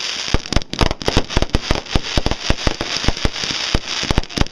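Fireworks going off in a rapid, uneven string of sharp bangs, several a second, over a continuous crackling hiss.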